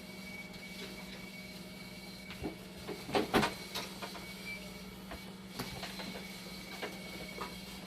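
Dialysis machine running with a steady hum, with a cluster of clicks and knocks about three seconds in and a few lighter clicks later.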